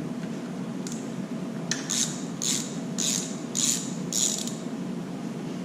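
Hand socket ratchet clicking through about five back-strokes, roughly two a second, as it turns a bolt on the puller being fitted to the 2JZ-GTE crank pulley.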